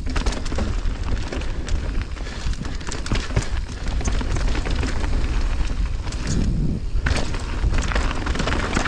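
Mountain bike descending a rough downhill trail: heavy wind rumble on the microphone over the noise of knobby tyres on dirt and rock, with the chain and frame rattling and knocking over the bumps.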